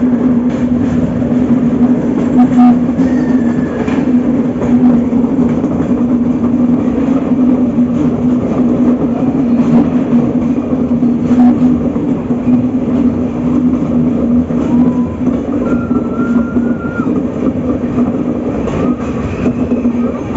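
Passenger train running on the rails: a steady rumble with a constant low hum and scattered clicks from the track.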